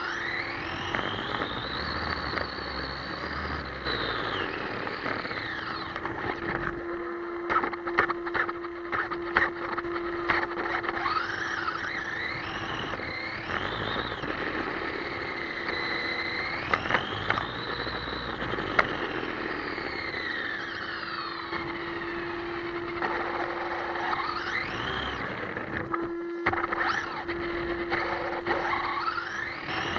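ECX AMP MT electric RC monster truck's motor whining, the pitch rising and falling again and again as it speeds up and slows down. A cluster of sharp clicks and knocks comes about seven to ten seconds in.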